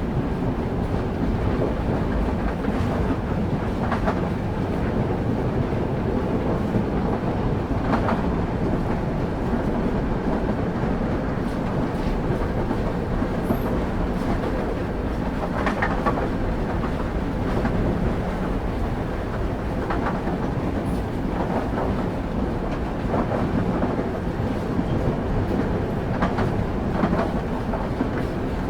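Passenger train running along the rails, heard from on board: a steady low rumble of the carriage, with the wheels clicking over rail joints every few seconds at irregular intervals.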